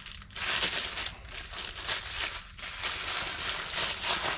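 Plastic packaging crinkling and rustling in bursts as a new engine part is unwrapped by hand.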